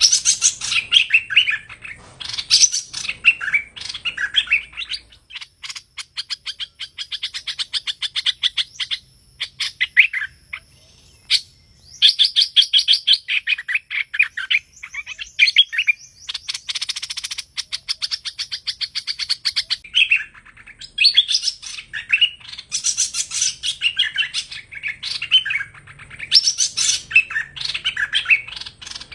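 Song of the hoành hoạch bird in the prized 'thơm' style, played as a trapping lure: quick, busy phrases of high chirps and whistles, broken up by fast rattling trills and a short harsh buzz, with a brief pause about a third of the way in.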